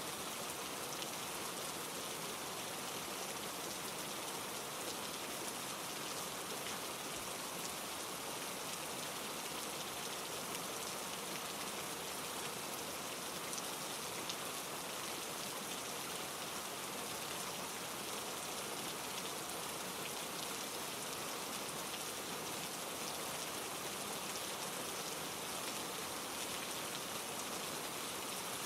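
Steady rain falling, with many fine drop ticks, over a mountain stream running down rough granite rocks. The hiss holds even throughout.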